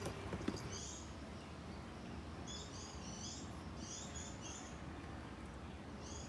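Small birds chirping: clusters of short high notes, repeated several times, over a steady low background noise.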